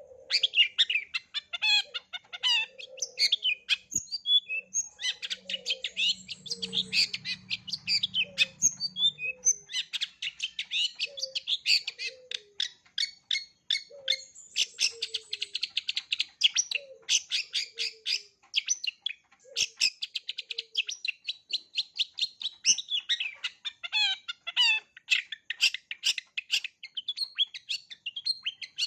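Long-tailed shrike singing a rapid, unbroken string of high chirps, trills and whistled phrases: a full 'isian' song packed with notes mimicked from other birds. Beneath it a soft, lower down-slurred note repeats about once a second.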